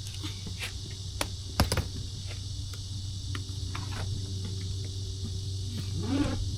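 Steady high insect chirring over a low hum, with a few sharp clicks about a second and a half in.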